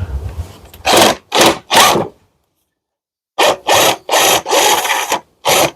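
Hand tool working the screws that hold a Victa two-stroke engine to its mower deck: short rasping strokes, three about a second in, then a quick run of about six after a pause.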